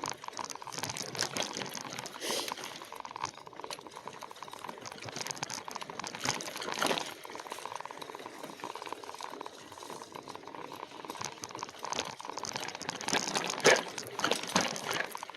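Riding noise of an e-bike on a dirt single-track trail, pedalled with its motor off: tyres crackling over the ground with a steady rattle from the bike, and louder knocks over bumps about seven seconds in and near the end.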